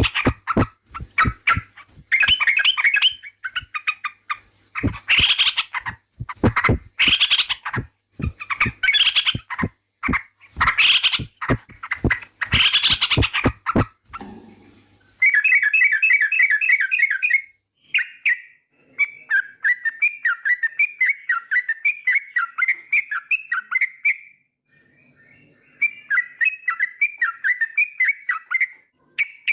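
Yellow-vented bulbul (trucukan) singing: loud, bubbling phrases repeated about once a second, then, about halfway through, a faster run of twittering chatter.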